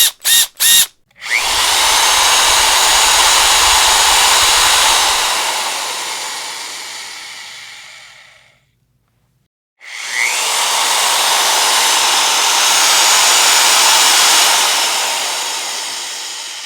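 Electric power drill: three quick trigger blips, then a long run of about seven seconds that tapers off, a brief pause, and a second long run that also tapers away.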